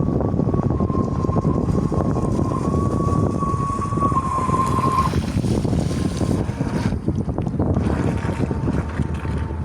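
Thin, steady high whine of a bait boat's brushless electric motors running, which stops about halfway and returns faintly near the end. Heavy wind buffeting on the microphone is louder throughout.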